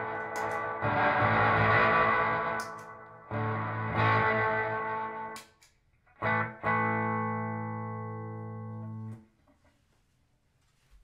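Electric guitar (a PRS SE Custom 24) strumming chords through a Beautiful Noise When the Sun Explodes reverb pedal into a clean amp and 2x12 cabinet: a few washy sustained chords, the last one ringing for about two and a half seconds before cutting off suddenly about nine seconds in, then near silence.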